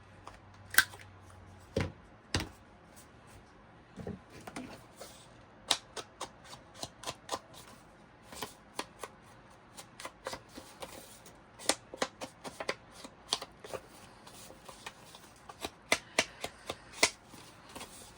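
Paper and card stock being handled at a craft table, with many irregular sharp clicks and taps, more frequent after the first few seconds.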